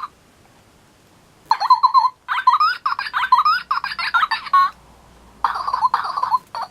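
Baby Birdy Bird electronic toy bird playing fast, warbling electronic chirps through its small speaker. It comes in two runs, starting about a second and a half in and again about five and a half seconds in.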